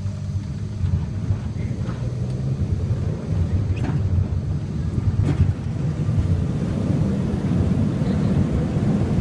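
Tourist rail cart's engine moving from a steady idle into a louder, rougher run as the cart pulls away along the track, with a couple of sharp clacks and wind on the microphone.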